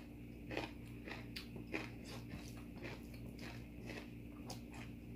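A person chewing and crunching food close to the microphone, with scattered soft crunches and mouth clicks.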